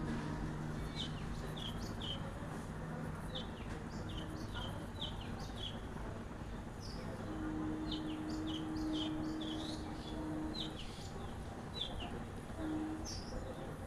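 A small bird calling repeatedly with short, high chirps in runs of several, over steady background noise and a low hum that comes and goes.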